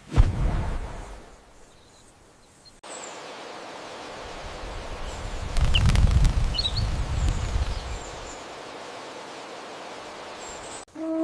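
Outdoor nature ambience: a steady hiss with a low rumble swelling in the middle and a few faint bird chirps.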